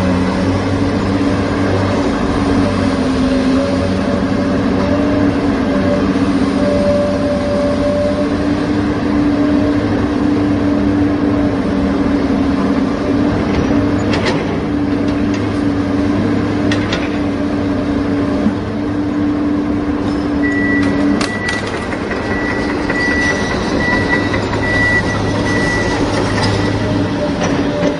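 Steady engine drone of a heavy vehicle, a toy truck or excavator engine sound, shifting slightly in pitch. About twenty seconds in, a high repeated beeping like a reversing alarm joins it for several seconds.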